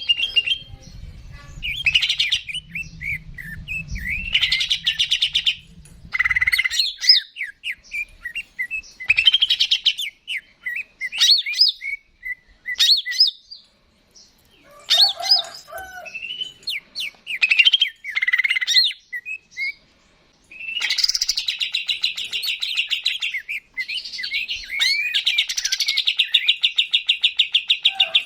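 Greater green leafbird (cucak ijo) singing a varied song of quick whistled chirps and slurred phrases, broken by short pauses. Over the last several seconds it gives long, fast, evenly pulsed trills. A low rumble runs under the song for the first few seconds.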